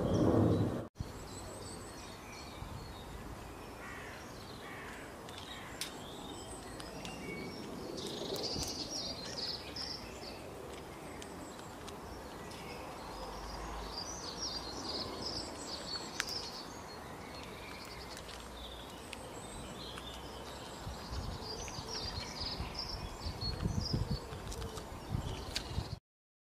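Small birds chirping over steady background hiss, many short high calls repeating throughout. A few low rumbles come near the end, then the sound cuts off.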